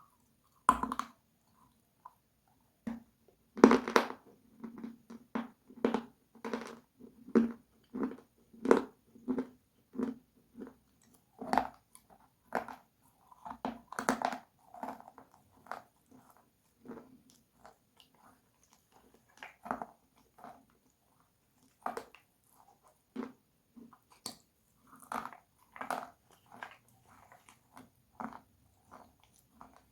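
Close-miked biting and crunchy chewing, with loud bites about a second in and again near four seconds. Regular crunching chews follow at about one and a half a second, thinning into scattered crunches later.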